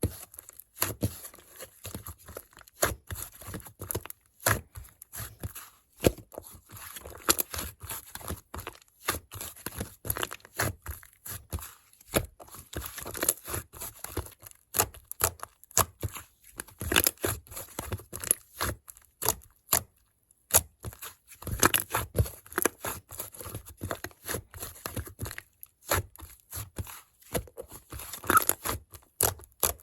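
Slime being squished and kneaded by hand, giving a dense, irregular run of sharp pops, clicks and crackles.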